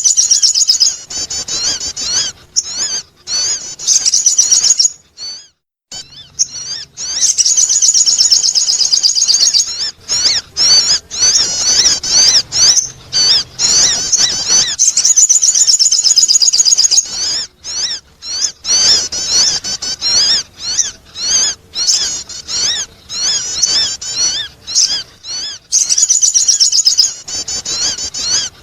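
Sogon bird lure call: rapid, high-pitched twittering chirps in long, dense runs, broken by short pauses.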